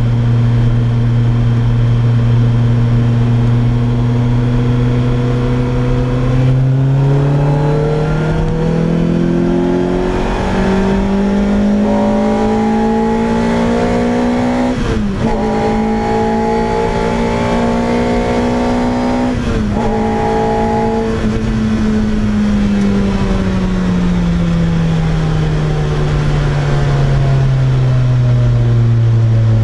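Lotus Exige Cup's naturally aspirated Toyota 2ZZ-GE four-cylinder engine through its loud exhaust. The note holds steady for a few seconds, then climbs through the revs with two quick upshifts about halfway through, then falls away as the car slows.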